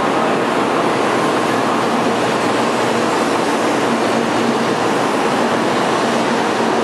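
N700 Series Shinkansen standing at a station platform, giving off a steady rushing noise with a faint hum underneath.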